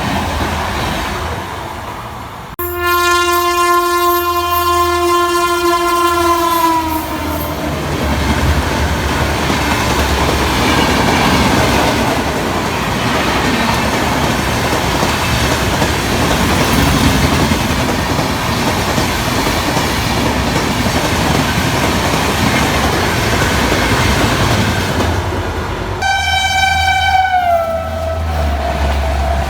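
Electric locomotive horn blowing for about four seconds and dropping in pitch as the fast passenger train passes, followed by the train rushing by with a steady rumble and wheels clattering over the rail joints. Near the end the horn sounds again, its pitch dropping partway through.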